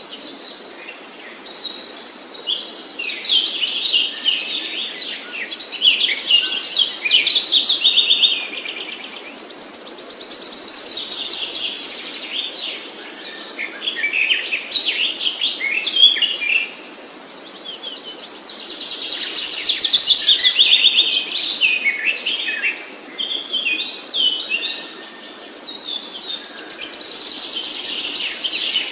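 Songbirds singing and chirping, with many overlapping high chirps and rapid trills that swell into loud runs every several seconds.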